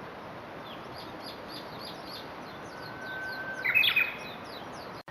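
Japanese bush warbler singing its 'hoo-hokekyo' song once: a long held whistle starting about halfway through, then a quick jumping flourish of higher notes. Faint high chirps repeat throughout.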